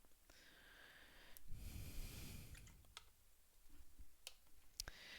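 Near silence in a small room: a soft rush of noise about a second and a half in, lasting about a second, and a few faint clicks.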